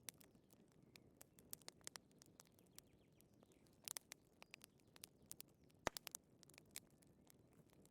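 Wood fire crackling: irregular sharp pops and snaps over a faint low hiss, with the loudest pop about six seconds in.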